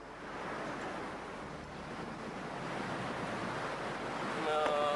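Steady rushing of strong wind that grows slowly louder.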